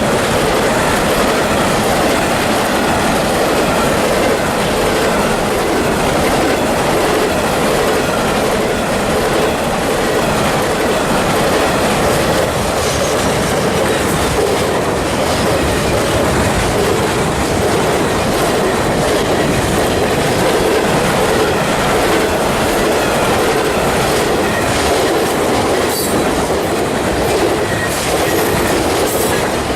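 CSX freight train's cars rolling past, the wheels clattering steadily over the rails.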